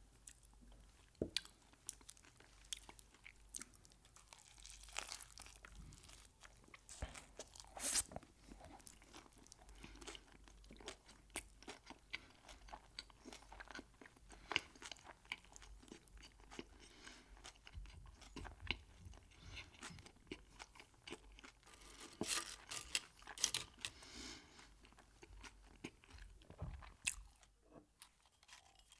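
Close-miked chewing of crunchy food: a steady run of crisp, crackly crunches with louder bites now and then.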